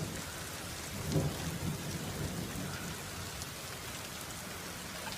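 Steady heavy rain falling, with a brief low rumble of thunder about a second in.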